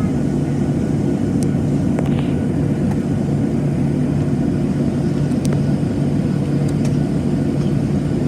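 Boeing 737-700's CFM56-7B jet engines running with a steady low rumble and a steady hum, with a few faint clicks over it.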